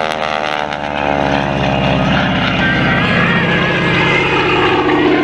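Propeller airplane's engine running loud, its pitch dropping over the first second or two as it goes by, then holding steady.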